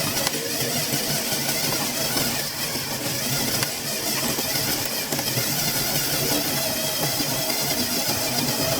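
Small electric motors and plastic gears of a LEGO RC car whirring steadily as it drives.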